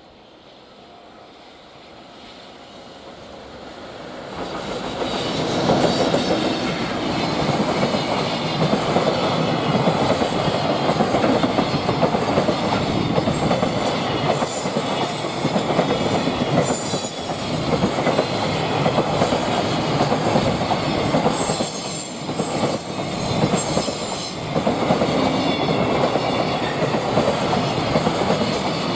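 Freight train approaching, growing louder over the first five seconds, then wagons passing close with a steady rumble and the clickety-clack of wheels over rail joints.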